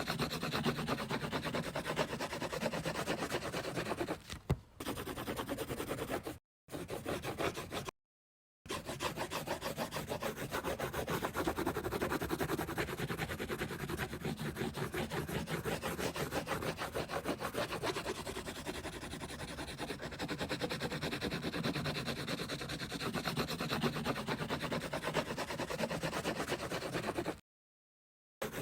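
A coloring tool scribbling on paper in fast back-and-forth strokes, a continuous rubbing scratch that cuts out to dead silence for a moment a few times.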